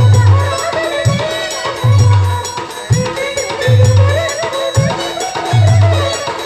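A village band playing an Adivasi folk dance tune: a wavering lead melody over a steady beat, with deep bass drum hits alternating with sharp strikes about once a second.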